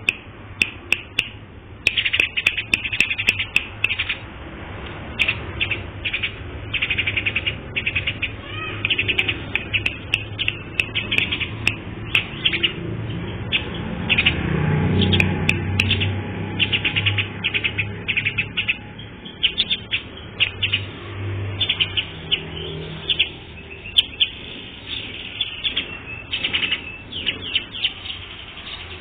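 A songbird singing in quick runs of short, high chirping notes, with brief pauses between phrases, over a low steady hum.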